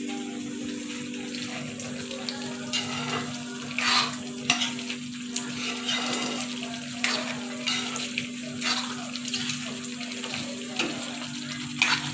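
Thick potato curry gravy sizzling in a pan on a gas burner while a metal spatula stirs and scrapes through it, with a few sharp knocks of the spatula against the pan. A steady low hum runs underneath.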